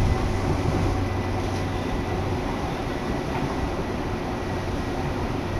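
Seibu Ikebukuro Line commuter train running, heard from inside the car: a steady rumble with a low hum and a faint high whine.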